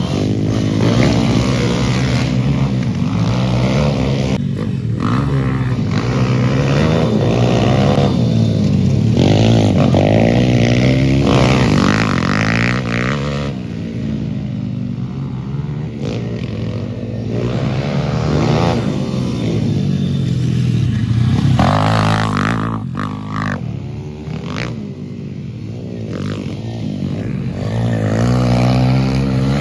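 A road vehicle's engine running under way, its pitch repeatedly rising and falling as it accelerates and changes gear.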